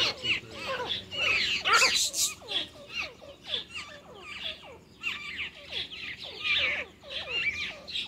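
Small birds chattering: a rapid, overlapping stream of short, squeaky, downward-sweeping chirps.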